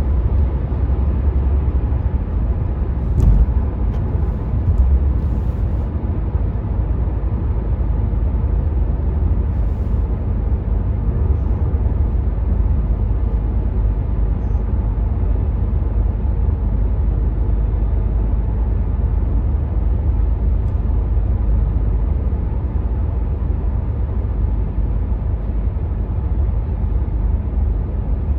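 Cabin noise in a 2019 Renault Megane 4 1.5 dCi diesel at motorway speed: a steady low rumble of road and wind noise, with two brief thumps a few seconds in.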